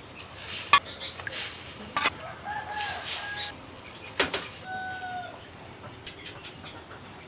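Chickens calling, with two drawn-out calls about halfway through, amid three sharp knocks; the first knock, near the start, is the loudest sound.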